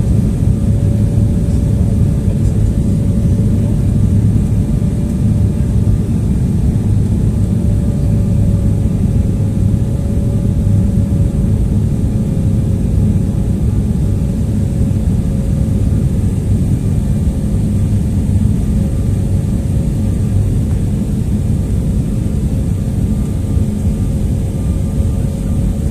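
Jet airliner cabin noise: a steady low rumble of engines and airflow with a constant whine running through it, heard from inside the passenger cabin.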